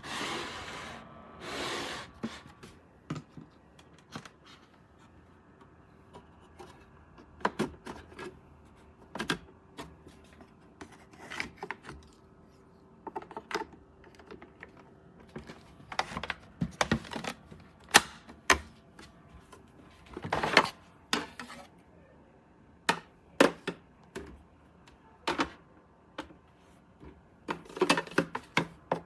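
Irregular clicks and knocks of things being handled, some in quick clusters, with two short rustling swishes near the start.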